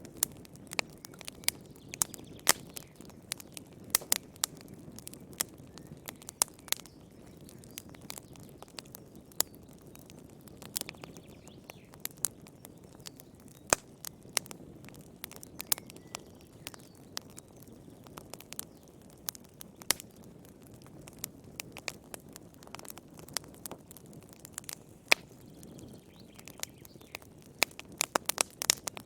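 Wood fire burning in a fireplace: irregular sharp crackles and pops over a low, steady rush of flame, with a quick run of pops near the end.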